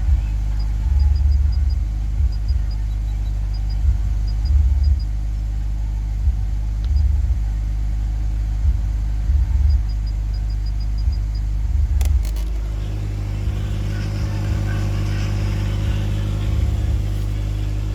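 Car stereo playing, heard mostly as a low, uneven bass rumble with thumps, which becomes a steadier low hum after about twelve seconds. The door speaker under test is not working.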